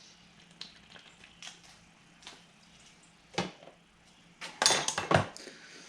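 Hand tools clinking and knocking against metal mower parts: a few light taps, a sharper knock about three and a half seconds in, then a quick cluster of louder metal strikes near the end.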